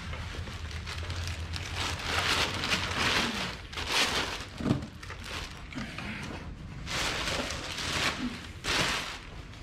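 Packaging being handled while a machine is unboxed: irregular bursts of rustling and crackling, strongest in two spells, one a few seconds in and one near the end.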